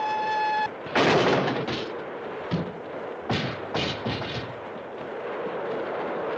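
A steam locomotive's whistle holding one steady note, cutting off sharply just under a second in, followed by a run of about six loud, sharp blasts over a steady rushing noise.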